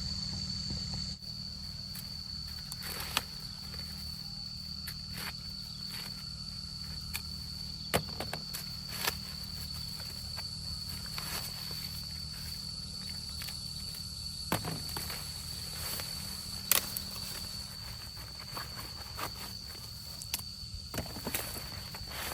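Ears of corn being snapped off the stalks by hand, with rustling of the dry plants: irregular sharp snaps every second or two. A steady high insect drone runs underneath.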